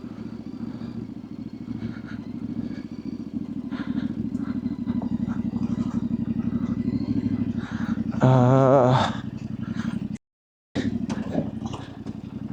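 Yamaha Ténéré 700's parallel-twin engine running at low revs with a steady pulse while the bike picks its way down a steep, slippery trail. About eight seconds in there is a brief loud burst with a wavering pitch, and the sound cuts out for half a second soon after. Knocks and clatter follow as the bike goes over rough ground.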